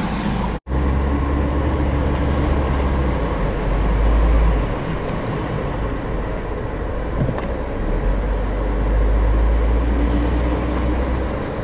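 Car driving, heard from inside the cabin: a steady road and engine rumble, heaviest in the low end. The audio cuts out for an instant about half a second in.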